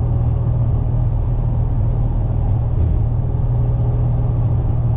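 Plow truck's engine and road noise heard from inside the cab while driving: a steady low drone that holds even throughout.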